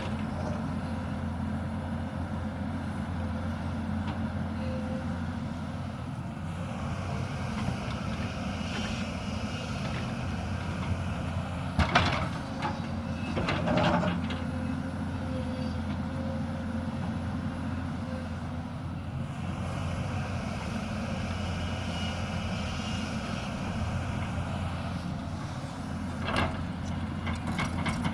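Hyundai 220 hydraulic excavator's diesel engine running steadily under work. Sharp knocks about twelve seconds in, again two seconds later and near the end.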